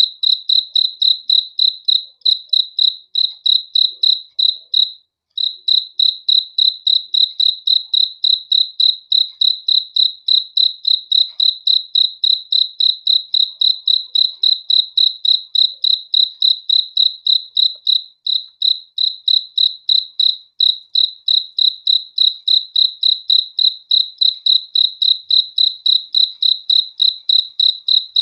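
A single cricket chirping close up in an even, high-pitched rhythm of about three to four chirps a second, with one brief pause about five seconds in.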